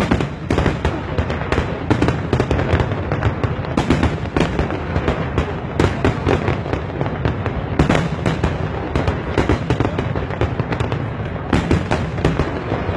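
Fireworks exploding in rapid, continuous succession, a dense barrage of bangs and crackles.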